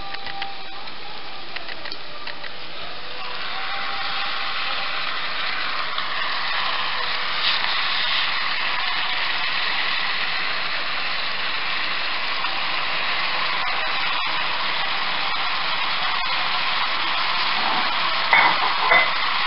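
Chicken pieces sizzling on a bed of fried onions in a large pot: a steady sizzle that grows louder about three seconds in as the chicken goes into the hot pot. Two brief knocks near the end.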